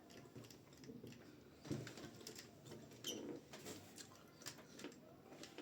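A person chewing momo dumplings, with soft wet mouth clicks and smacks scattered through; the loudest bites come a little under two seconds in and about three seconds in.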